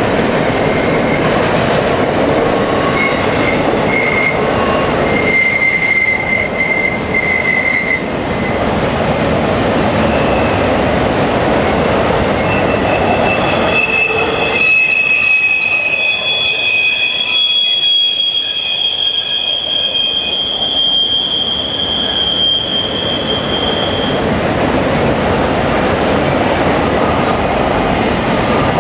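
Freight cars of a CN intermodal train rolling past steadily, with steel wheels squealing against the rails in long, high tones, a few short ones early and a stronger, overlapping set for about ten seconds midway.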